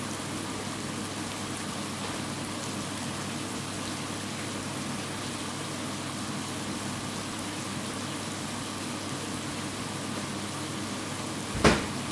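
Prawns and onion masala sizzling gently in a frying pan on low heat, a steady hiss. A single sharp knock near the end.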